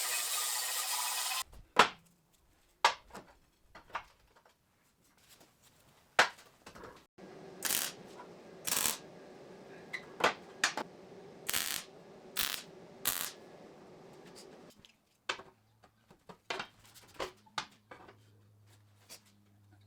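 A steady hissing power tool cuts off about a second and a half in. It is followed by scattered sharp clicks, clinks and knocks of metal parts and tools being handled.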